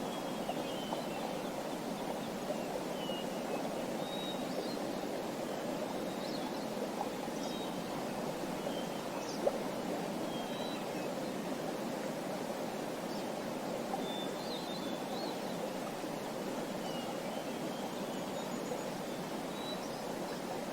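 Small songbirds chirping in short scattered calls over a steady rushing background noise, with one brief click about nine seconds in.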